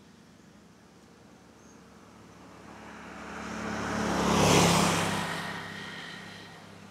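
A motor vehicle passing close by on the road: its engine and tyre noise grow louder, peak about four and a half seconds in, then fade.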